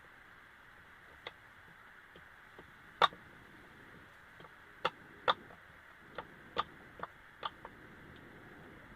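A pot of cassava leaves boiling over the cooking heat: a steady hiss with irregular sharp pops and clicks, the loudest about three seconds in and several more close together past the middle.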